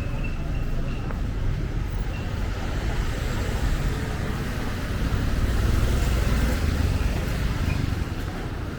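Road traffic: a steady rumble of engines and tyres, swelling as a vehicle passes close about two-thirds of the way through, then easing.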